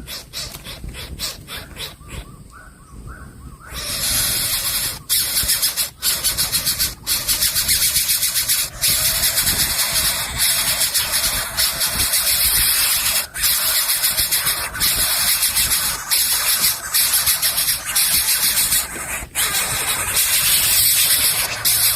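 Coucal chick hissing at the nest, a harsh rasping noise repeated again and again with short breaks, starting about four seconds in: the chick keeps begging even after being fed.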